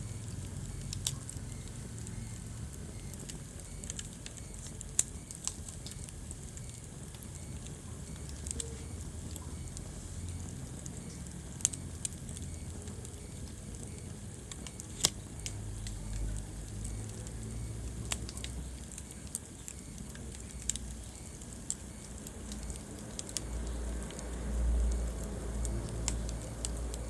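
Wood fire in a fireplace crackling over a low, steady rumble of flames, with scattered sharp pops every few seconds. The low rumble swells briefly near the end.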